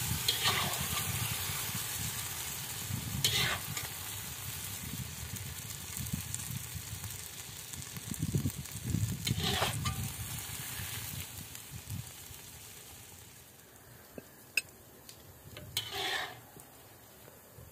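Chicken wings sizzling in sauce in an uncovered cast-iron kazan, with a metal slotted spatula scraping against the pot a few times as they are stirred and lifted. The sizzle fades toward the end.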